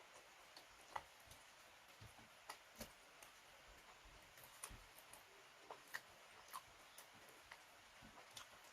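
Faint, irregular wet clicks and soft chewing sounds of a person eating close to the microphone, one or two small clicks a second.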